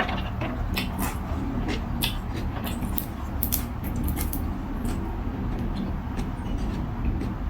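A person eating noodle soup with raw vegetables: scattered short crunches and clicks of chewing and bowl handling over a steady low hum.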